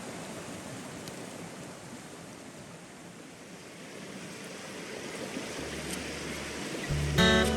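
Steady rushing of a mountain stream. Acoustic guitar music comes in at the very end.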